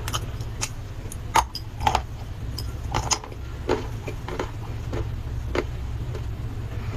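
Dry clay crunching and cracking: irregular sharp snaps, several a second at times, over a steady low hum.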